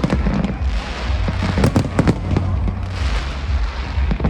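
Fireworks display: a rapid, irregular series of bangs and crackles from bursting shells, over a steady low rumble.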